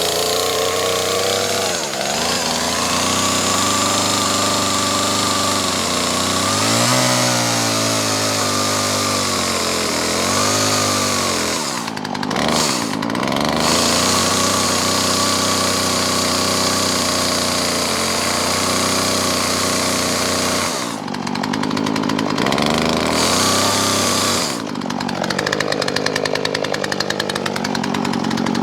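Gasoline-powered saw running at high revs and cutting wood. Its engine note bogs and recovers several times, with marked dips about 12, 21 and 25 seconds in.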